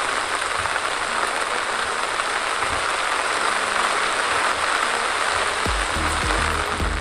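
Steady hiss of rain and tyre spray from a car driving on a wet road. Background music's bass beat comes in strongly near the end.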